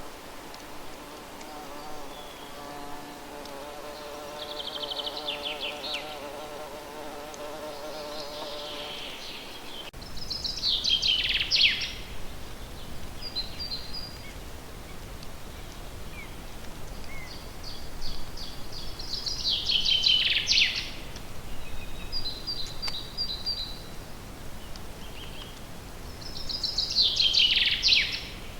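A flying insect buzzing close by, with a steady hum, for the first ten seconds or so while birds sing in the background. After that a songbird repeats a loud, quick trilled phrase that falls in pitch, about every eight seconds, with softer chirps from other birds in between.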